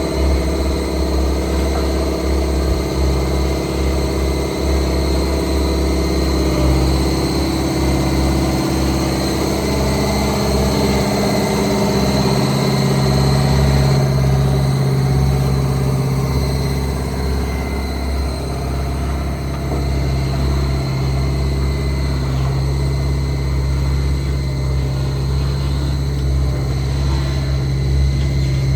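Diesel engine of heavy construction machinery running steadily, with a continuous low rumble and a shift in its note about halfway through.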